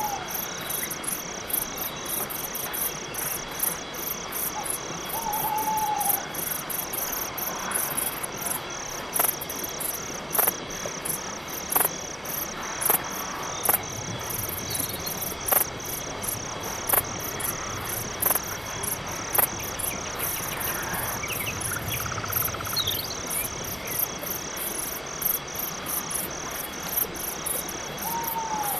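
Night-forest crickets chirping in a rapid, even pulse throughout. A few short falling calls come near the start, about five seconds in and at the end, and about eight sharp knocks land roughly every second and a half in the middle.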